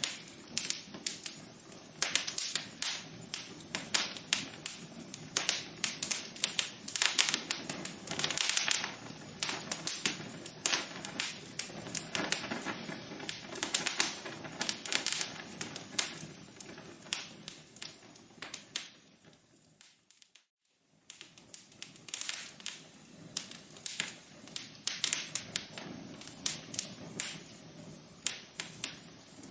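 Wood fire crackling in a fireplace, with frequent sharp pops and snaps over a soft hiss. The crackle fades almost to nothing for about a second two-thirds of the way through, then starts again.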